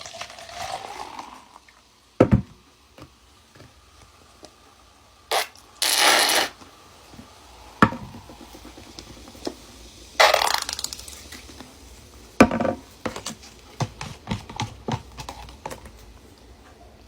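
Scattered handling noises: separate clicks and knocks, with a couple of short rushes of crinkling, crushing noise about six and ten seconds in.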